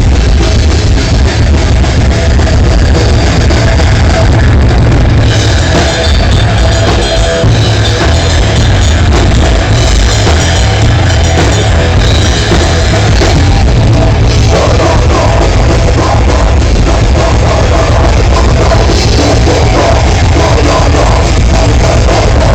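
Loud rock music with a drum kit and a heavy bass line, playing continuously.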